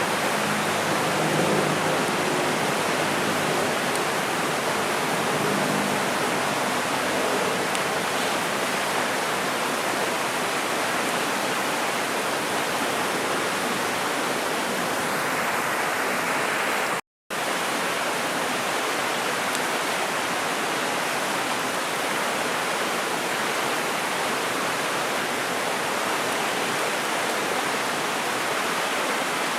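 Mountain river rushing over rocks, a steady loud wash of flowing water; the sound drops out completely for a moment about seventeen seconds in.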